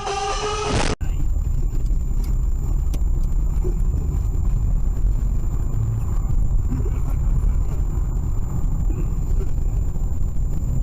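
A song with singing cuts off abruptly about a second in. It gives way to the steady low rumble of a car driving, with a faint, steady high whine above it.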